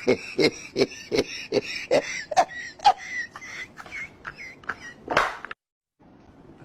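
A dog answering in a quick run of short whiny grunts, about two to three a second, with a longer drawn-out one about five seconds in; the sound cuts off suddenly just after.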